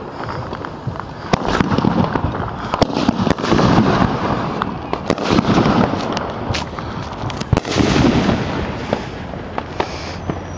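Consumer fireworks going off: a rapid string of sharp cracks and pops over a continuous low rumble of bursts.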